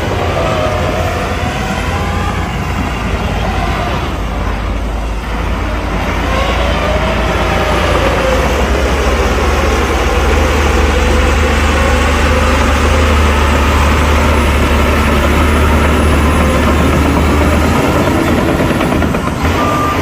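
Heavy diesel earthmoving machinery running under load, a deep steady rumble with engine pitch rising and falling, growing louder about eight seconds in.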